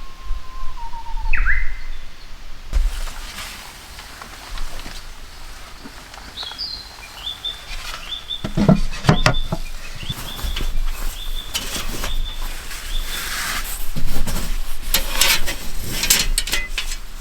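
Small birds chirping outdoors: a falling whistled note, a quick up-sweep, then a string of short, high chirps. Scattered clicks, knocks and rustles come in over a low rumble, loudest about two-thirds of the way through.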